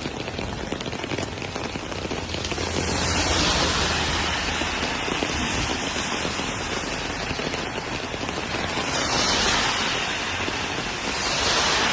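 Heavy rain falling steadily, swelling louder a few times.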